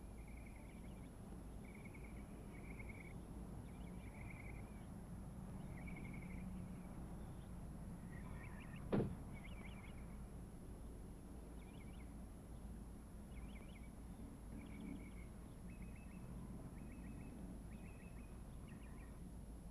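Faint outdoor quiet with small birds chirping in short, repeated calls over a low steady hum, and one sharp knock about nine seconds in.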